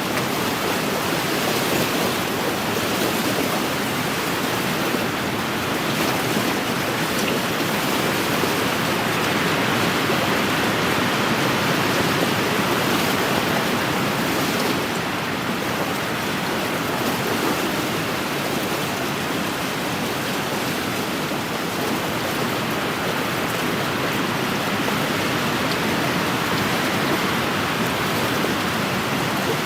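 Wind-driven lake waves washing against the shore, a steady rushing noise that swells and eases gently.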